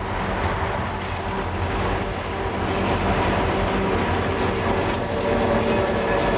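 Slow freight train rolling past, with a steady low rumble and the clatter of cars on the rails. A faint high wheel squeal comes in briefly about one and a half seconds in.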